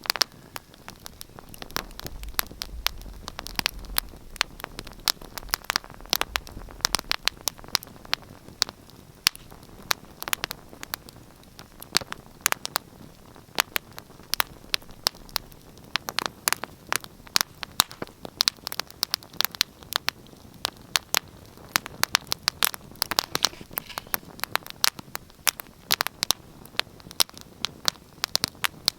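Wood fire in a fireplace crackling: many sharp irregular pops and snaps over a soft steady hiss of burning.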